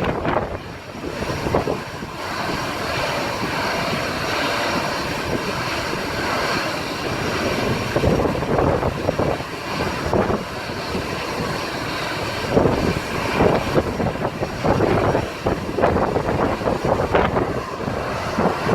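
Jet airliner engines running at high thrust, a dense rushing noise with the jet blast buffeting the microphone in irregular gusts that grow stronger in the latter part.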